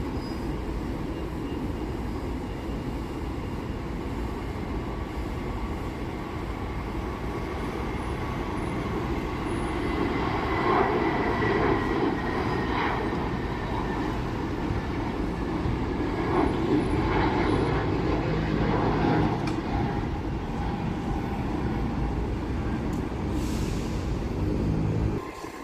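Jet airliner engines rumbling steadily, swelling louder through the middle with a faint high whine that slowly falls in pitch, then cutting off abruptly near the end.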